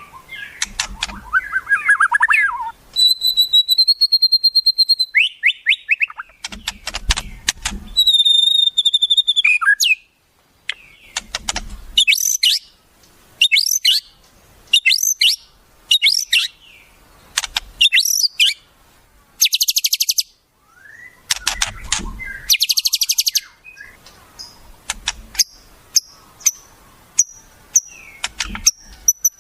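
Wild songbirds calling in a varied sequence: twittering, two long held whistles, short repeated chirps, and fast buzzy trills. This is the kind of wild-bird song used as fill material to teach white-rumped shamas new phrases.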